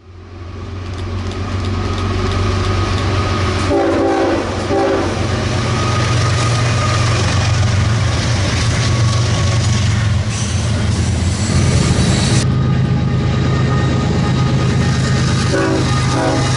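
Diesel freight locomotive running with a steady low engine drone, sounding its horn in a few short blasts about four seconds in and again near the end.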